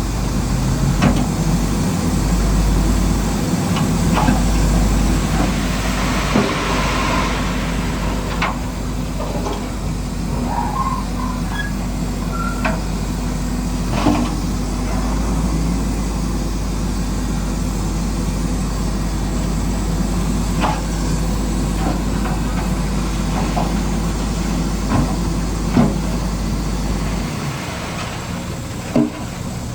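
Construction machine engine running steadily with a low drone, with scattered knocks and clicks from the work. Near the end the deepest part of the drone drops away.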